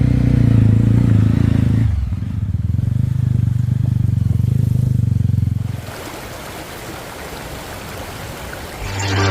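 Motorcycle engine running steadily, its note changing to a quicker pulsing beat about two seconds in, then cutting away at about six seconds to the even rush of a flowing river.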